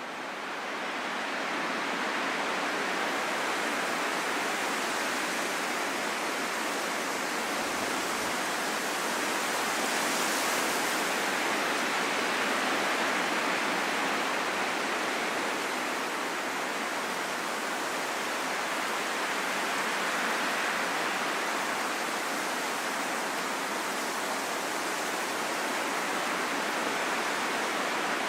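Steady rain falling in a forest, an even hiss with no separate drops or other sounds standing out. It fades in over the first second or two.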